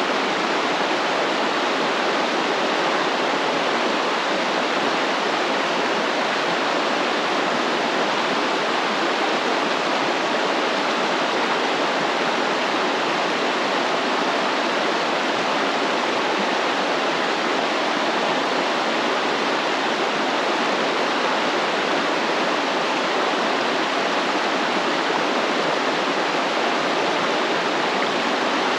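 A flowing stream: water rushing and splashing steadily, without a break.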